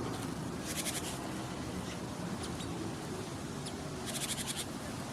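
Great tits calling: two short, rapid chattering bursts, about a second in and again near the end, with a few thin high notes between them, over steady wind noise.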